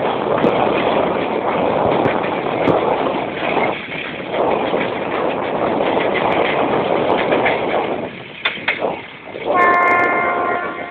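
Train running past with a loud, steady rushing noise that drops away near the end, then a train horn starts about a second and a half before the end and holds one steady chord.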